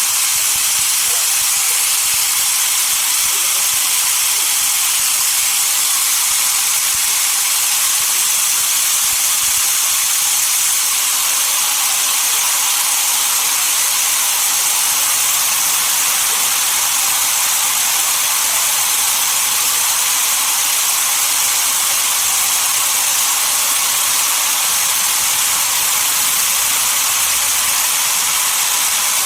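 Sawmill saw cutting through a log: a loud, steady hiss, mostly high in pitch, that holds even throughout without a break.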